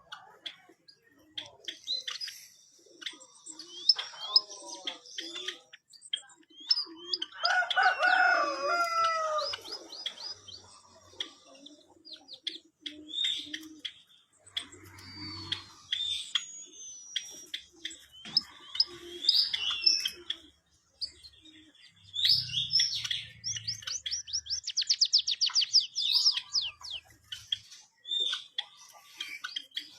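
White-headed munia singing: a string of short high chirps and whistled glides, with a fast trill of rapidly repeated notes near the end.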